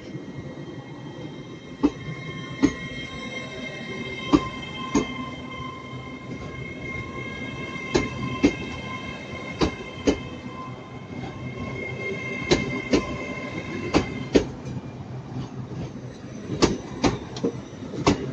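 Hitachi class 802 train pulling out of the station: its wheels clack sharply and irregularly over rail joints and points, over a low rumble and a steady high whine that stops about 14 seconds in.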